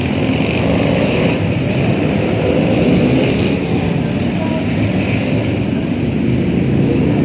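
Steady low rumble of many motorcycle engines as a group of bikers rides past.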